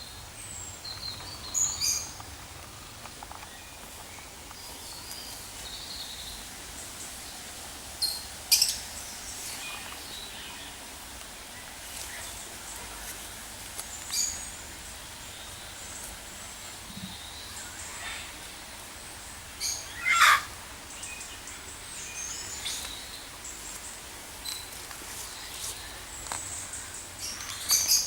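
Aviary birds calling: scattered high chirps and a handful of short, sharp calls over a steady background hiss. The loudest call comes about twenty seconds in.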